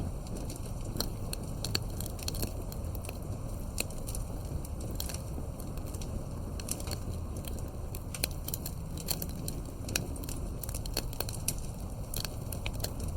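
Wood campfire crackling: irregular sharp pops and snaps, a few every second, over a steady low rumble.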